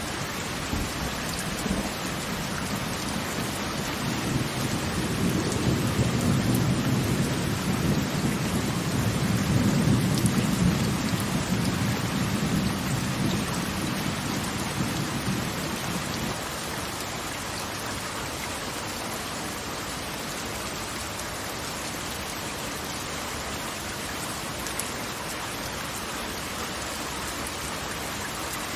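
Steady hiss of heavy falling water, with a deep rolling rumble that swells a few seconds in and dies away about halfway through.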